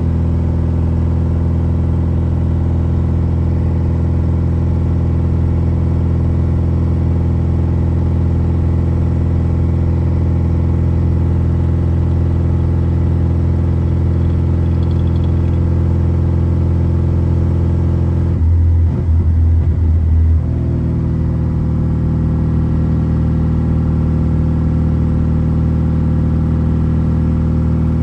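BMW E36 engine running at a steady speed while driving, a constant low drone. About two-thirds of the way in, the note breaks up and gets louder for about two seconds, then settles back into a steady drone.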